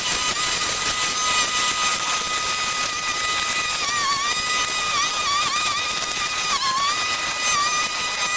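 Gas brush cutter running at high speed, its whine dipping in pitch several times in the second half as the engine takes load cutting through vegetation.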